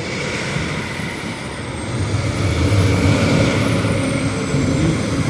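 Road traffic going past, with one vehicle's engine rumble growing louder from about two seconds in as it passes close.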